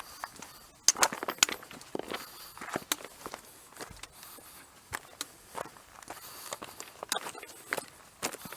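Footsteps of a hiker walking over the stony floor of a dry wadi: irregular crunching and clicking steps, the sharpest cluster about a second in.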